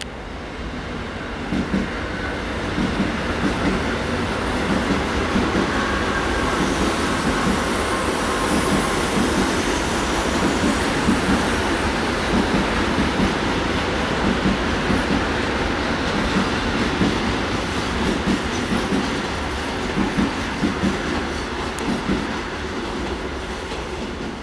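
Passenger train hauled by an EP2K electric locomotive rolling past, its wheels clattering over rail joints in a rapid, uneven clickety-clack. The sound builds over the first few seconds and eases a little near the end.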